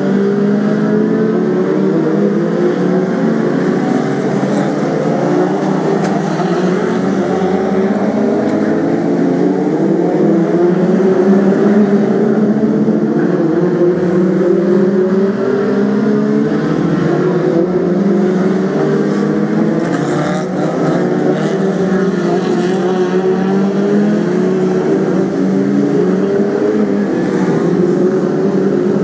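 A pack of Brisca F2 stock cars racing on an oval, several engines running together and repeatedly rising and falling in pitch as they accelerate and ease off around the laps.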